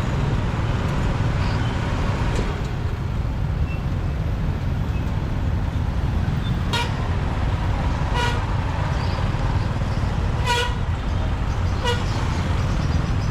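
A vehicle horn tooting four short times, about a second and a half apart, in the second half. Under it runs the steady rumble of a motorbike ride through city traffic.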